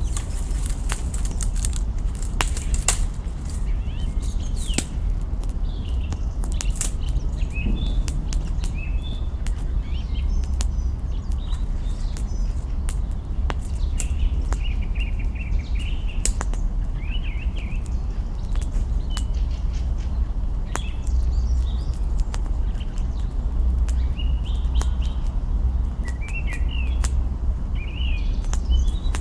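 Wood fire crackling, with many sharp irregular pops from burning branches. Small birds chirp and twitter all through it over a steady low rumble.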